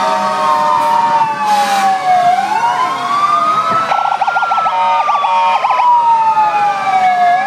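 Several fire truck sirens sounding at once: slow wails rising and falling over a few seconds, with a fast warbling yelp joining about four seconds in.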